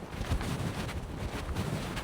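Wind buffeting the microphone in uneven low gusts over a steady rushing hiss of creek water.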